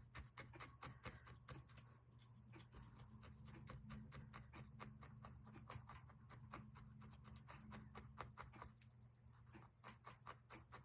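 Felting needle stabbing quickly and repeatedly through wool roving into a foam block, faint light pokes at about five a second, tacking down a small wool ball. The pokes thin out briefly near the end.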